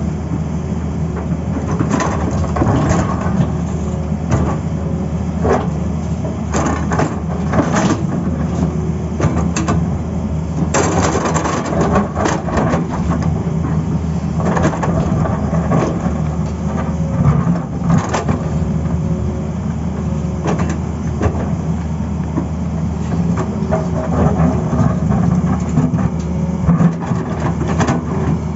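Tata Hitachi excavator's diesel engine running steadily under load, with repeated crunching and scraping as the bucket works soil and stones.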